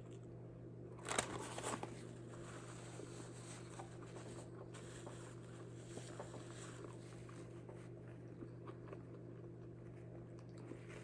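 A bite into food about a second in, then faint chewing with small crunches, over a steady low hum.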